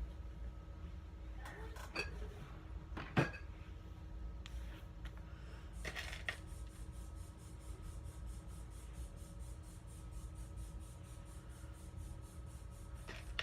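A few light knocks and clinks of small hard objects being handled, the sharpest about three seconds in, over a steady low hum.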